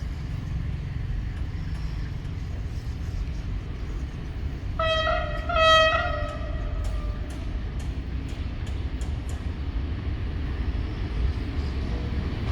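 Passenger train running with a steady low rumble. About five seconds in, its horn sounds two short blasts, the second trailing off, and a run of light clicks follows.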